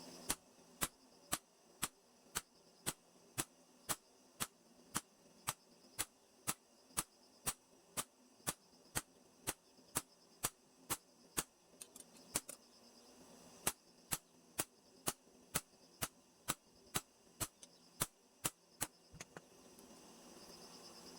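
Light, regular hammer taps, about two a second, with a short pause about halfway through.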